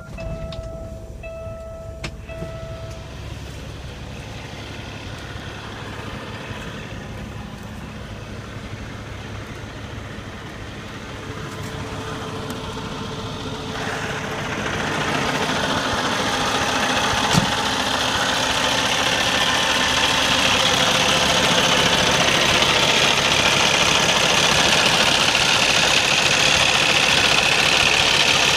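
Cummins ISX inline-six diesel in a Peterbilt 389 running at idle just after start-up, growing louder and brighter through the middle of the stretch and then holding steady. A steady tone sounds for the first three seconds, and there is a single sharp click at about 17 seconds.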